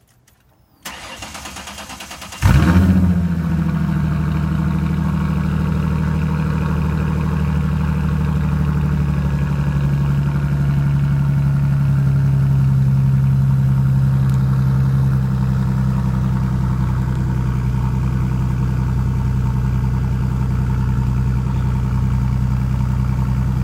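2007 Ford Mustang's 4.0-litre V6 with a straight-piped exhaust, cranked on the starter about a second in and catching a couple of seconds later with a brief loud flare. It then settles into a steady, loud idle.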